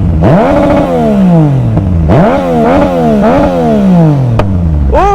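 A car engine with a loud exhaust being free-revved: a long rev near the start, then a few quick blips, each with the pitch jumping up and sinking slowly back toward idle. The blipping is done to make the exhaust pop and shoot flames.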